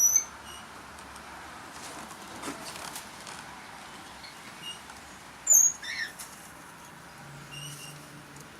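Aviary birds giving short, high chirps: a loud one right at the start and another about five and a half seconds in, with fainter chirps repeating between them. Soft rustling, like wings or movement, is heard about two to three seconds in.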